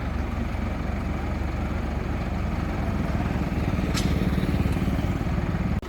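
Crane engine running steadily and getting slightly louder over the last few seconds, with one sharp click about four seconds in; the sound drops off abruptly just before the end.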